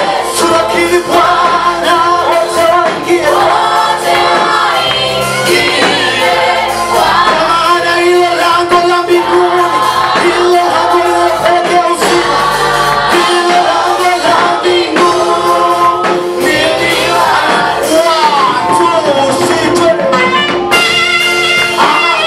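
Gospel praise singing with instrumental accompaniment, loud and continuous.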